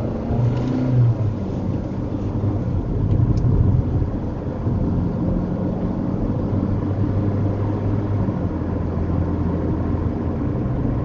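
Car engine and road noise, a steady low rumble, a little louder about three to four seconds in.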